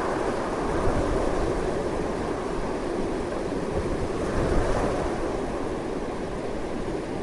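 Strong, continuous wind rushing and buffeting, swelling slightly about a second in and again around four and a half seconds in, with a low rumble beneath.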